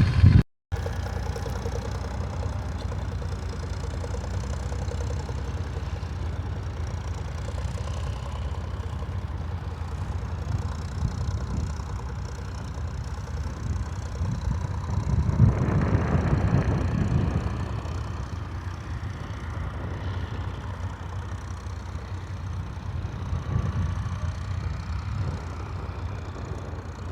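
Tractor engine running steadily at a low rumble, growing louder for a few seconds past the middle as the tractor works closer, then settling back.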